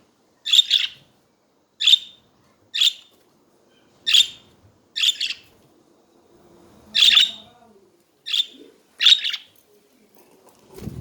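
Pet budgerigars giving short, sharp chirping calls, about eight of them spaced roughly a second apart with a pause midway. A brief low thump comes near the end.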